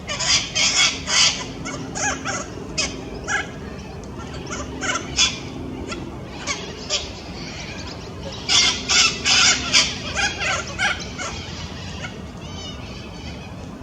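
Sulphur-crested cockatoos giving harsh, screeching calls in two bouts of quick repeated calls, one at the start and one about two-thirds of the way through.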